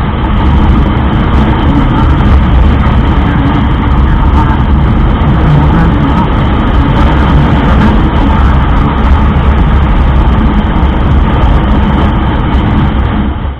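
Motorcycle on the move: steady rush of wind on the microphone over the engine, strongest in the low end and unbroken.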